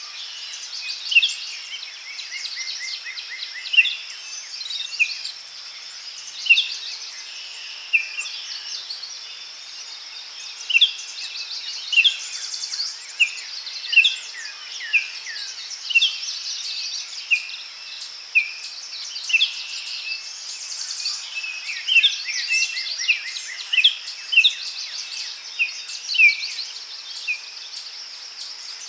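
Daytime forest ambience: birds calling in short, sharp chirps about every second or two, with a couple of quick trills, over a steady high-pitched insect drone.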